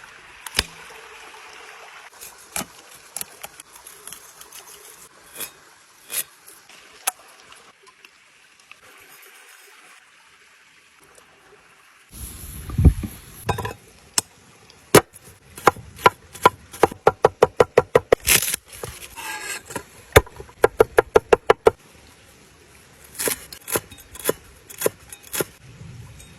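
Quick, evenly spaced strokes of a knife chopping on a wooden board, about five a second in two runs about halfway through, with scattered clicks and taps before and after.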